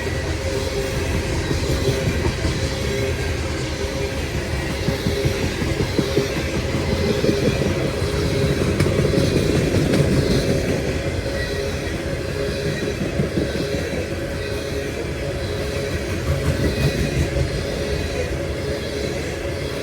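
Freight cars of a CSX coal train rolling past: a steady rumble of steel wheels on rail with uneven clacking and a faint, steady high squeal from the wheels.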